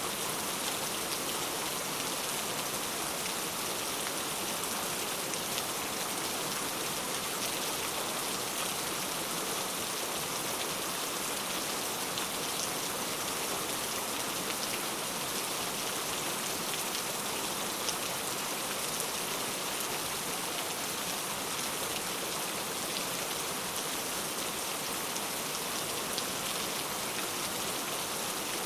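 Heavy rain falling steadily, a dense even hiss of drops with faint individual patters.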